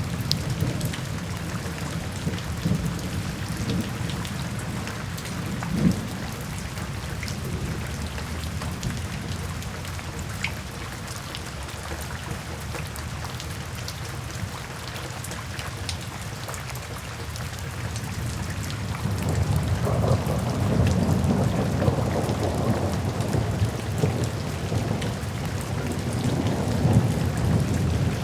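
Steady rain falling, with scattered drops ticking, and a low rumble of thunder that swells up about two-thirds of the way through.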